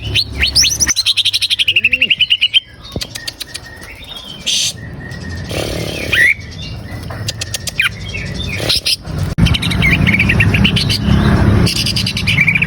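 Cucak ijo (greater green leafbird) singing. A fast series of high repeated notes comes first, then scattered chirps and clicks, then more chirping near the end.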